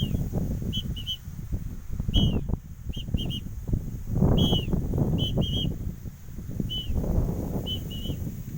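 A small bird chirping: short high calls, single or in quick doubles and triples, repeated over a louder low rumbling noise.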